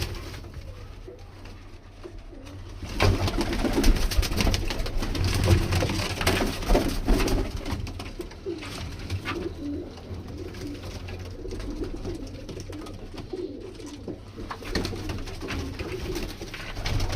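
Several domestic pigeons cooing, low warbling coos repeating throughout, with occasional short knocks and rustles among them.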